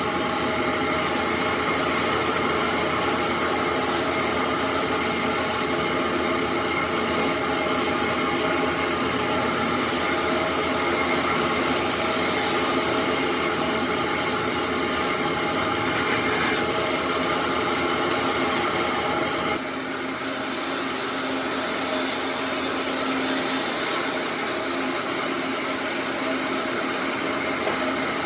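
An electric power tool running steadily with a continuous motor whine while working wood. Its sound changes about two thirds of the way through, with a brief dip in loudness.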